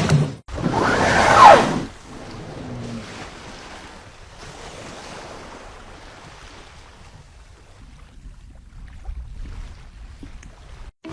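Sea water and wind at sea. A loud rushing surge of water builds and breaks off about two seconds in, then gives way to a quieter, steady wash of water and wind.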